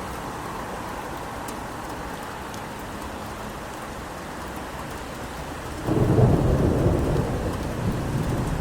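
Steady rain falling, then about six seconds in a sudden loud rumble of thunder breaks in and rolls on, slowly easing.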